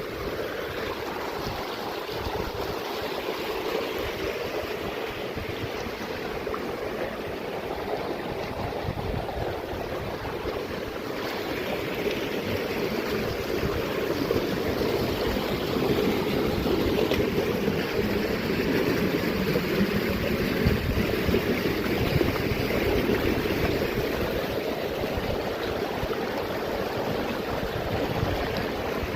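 Steady rush of running water from a mountain stream, growing a little louder about halfway through.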